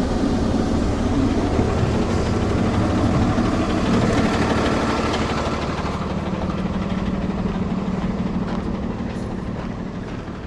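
Freightliner M2's Cummins 6.7 straight-six diesel idling steadily, growing a little fainter toward the end.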